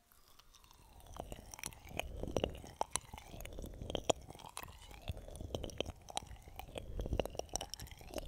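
Close-miked ASMR ear-massage sounds: a tool scratching and rubbing right against the microphone, with rapid crackling clicks and knocks over a swishing rub. The sound starts about a second in.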